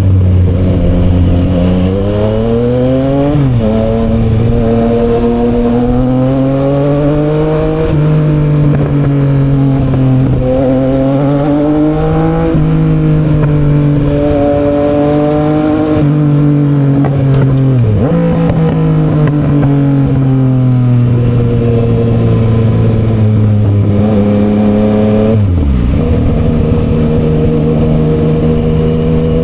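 Yamaha XSR900's three-cylinder engine breathing through an SC Project aftermarket exhaust while riding, the engine note rising under acceleration and dropping at each gear change, several times over. Near the end the revs fall away and then pick up again.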